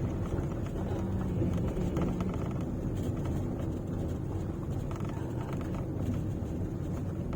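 Car running at low speed on a rough village road, heard from inside the cabin: a steady low engine and road rumble with some rattling.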